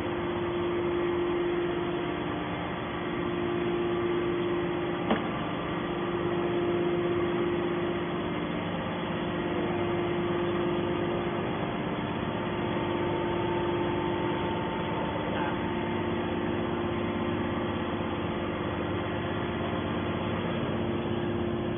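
Hydraulic scrap-metal baler's electric motor and pump running with a steady hum, with a single sharp click about five seconds in.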